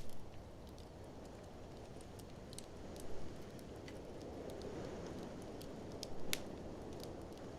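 Wood fire crackling in a fireplace, with scattered sharp pops, two of them louder about three and six seconds in, over the steady low rush of blizzard wind.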